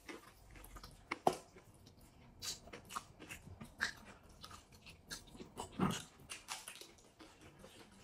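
Close-up eating sounds: chewing and biting on goat rib biryani and crisp bites of fresh lettuce, a string of short crunches and mouth smacks, the loudest about a second in and near six seconds in.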